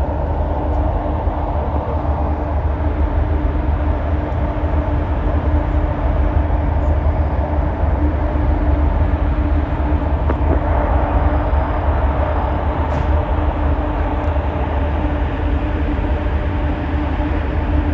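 Steady, loud drone of the passenger ferry Aline Sitoé Diatta's engines under way, a deep rumble with a constant hum over it.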